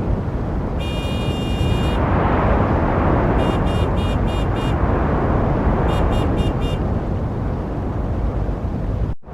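Steady street-traffic noise with a car horn honking over it. One long honk comes about a second in, followed by two bursts of short, rapid toots of four or five beeps each.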